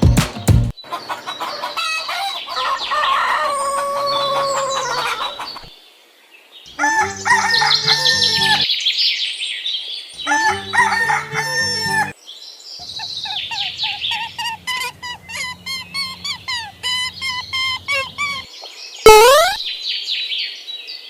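Farmyard chickens: a rooster crowing, then a run of short repeated clucks and calls. These are broken twice by brief patterned electronic sounds, and there are quick rising whooshes near the end.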